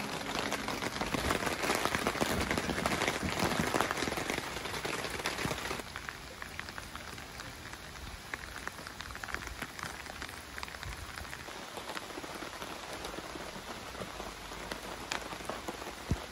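Steady rain falling on tent fabric and a car body, an even hiss dotted with many small drop ticks. It is louder for about the first six seconds, then drops to a softer level.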